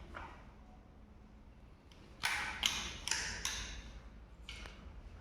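A few short scraping and clicking handling noises, four in quick succession about two seconds in and one more near the end, over a low steady hum.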